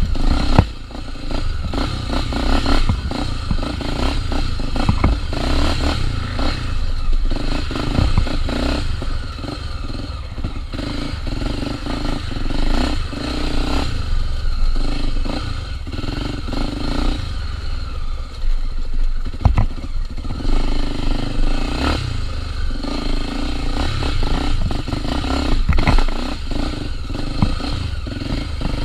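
Honda XR 250 Tornado's single-cylinder four-stroke engine running on a dirt trail, throttle opening and closing, with frequent knocks and clatter from the bike jolting over rough ground.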